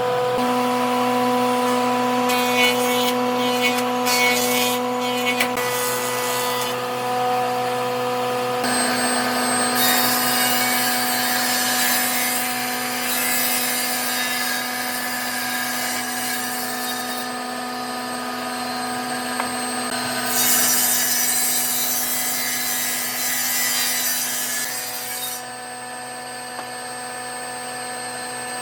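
Electric power tools working wood: a steady motor hum under a rasping, grinding noise of the tool against the timber. The noise changes abruptly several times.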